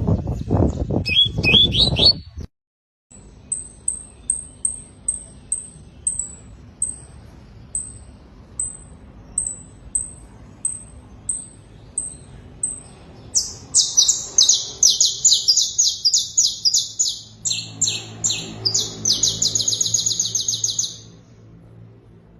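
Domestic canary singing: a run of evenly spaced short, very high notes, a little over one a second, then a quick switch into fast rattling trills and rolls for several seconds. The first two seconds hold a burst of loud noise with a few chirps before a short break.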